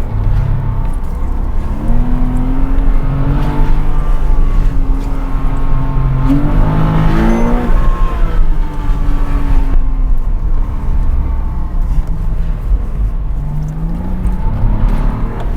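Porsche Cayman 987 2.7-litre flat-six engine being driven hard: its note climbs and drops repeatedly as it is revved and the driver shifts, with a sharp climb about six to seven seconds in.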